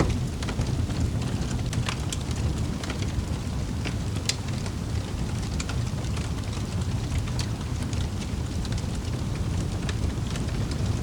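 Wood fire burning in a fireplace, with a steady low roar of the flames and scattered sharp crackles and pops several times a second.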